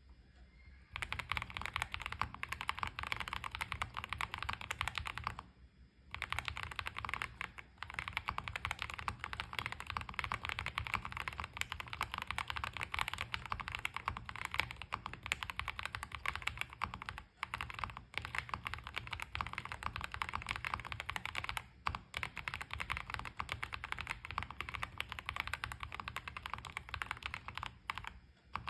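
Fast, continuous typing on a mechanical keyboard fitted with Philikey Fei Yellow switches. It starts about a second in and pauses briefly around six seconds.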